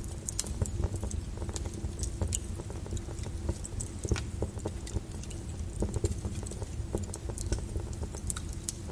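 Wood fire crackling, with irregular sharp pops and snaps over a steady low rush, layered with falling rain.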